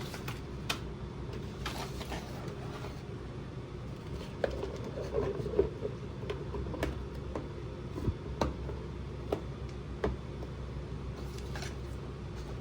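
Scattered light clicks and taps of small plastic toy pieces and packaging being handled, with a short crackly patch about five seconds in, over a steady low hum.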